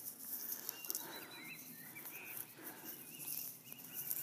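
Faint birdsong: a few short chirps about a second in and a thin warbling phrase a little after the middle, over a steady outdoor hiss.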